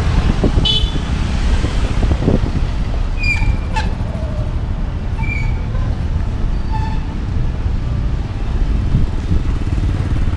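Riding a motorbike in road traffic: a steady low rumble of the engine and wind on the microphone, with a few brief faint high tones from the surroundings.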